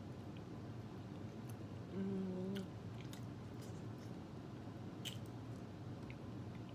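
Close-up chewing and biting of boiled pork, with scattered small wet mouth clicks and a brief hummed "mm" about two seconds in.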